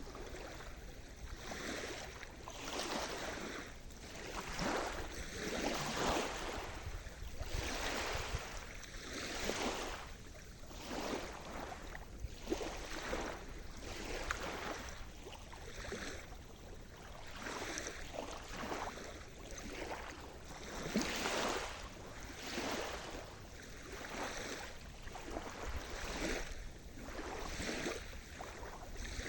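Sea surf: small waves breaking and washing in one after another, a swell of rushing water every second or two.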